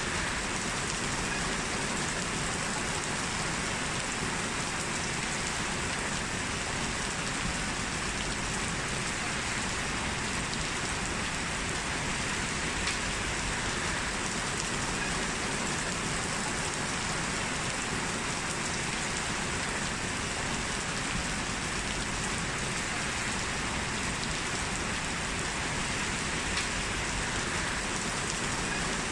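Heavy rain falling steadily: an even, unbroken hiss that neither swells nor fades.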